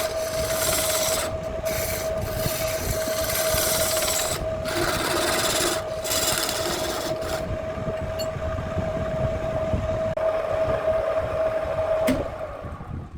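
Handmade wood lathe running with a steady motor hum while a tool or sandpaper rasps against the spinning wood in stretches with short gaps. The rasping dies away about halfway through, and near the end there is a click and the motor hum stops.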